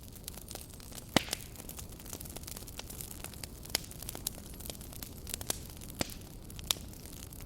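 Campfire crackling: irregular sharp pops and snaps over a steady low rumble of burning, with one loud pop about a second in.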